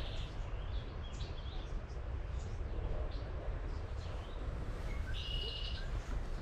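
Songbirds singing in a spring marsh woodland: scattered short high chirps, then about five seconds in a fast, buzzy trilled song lasting under a second. A steady low rumble runs underneath.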